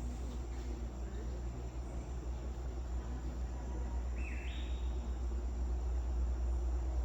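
Forest insects trilling steadily on one high tone over a steady low rumble, with a single short two-note call about four seconds in.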